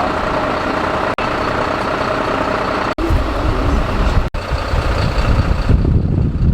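A heavy vehicle's engine running steadily, broken by a few very short breaks. Wind buffets the microphone with a low rumble from about halfway in.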